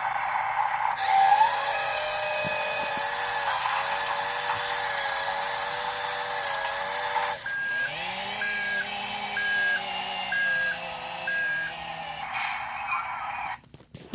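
Battery-operated toy power tool playing its electronic whirring sound effect. Partway through, the sound changes to a different whir with five beeps about a second apart, then it stops shortly before the end.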